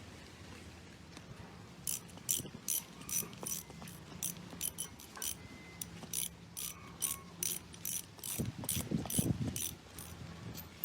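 Ratchet-like mechanical clicking in short repeated strokes, about two to three a second, starting about two seconds in, over a steady low hum.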